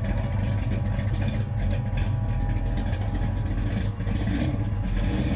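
A car engine running steadily at a constant low pitch, close by.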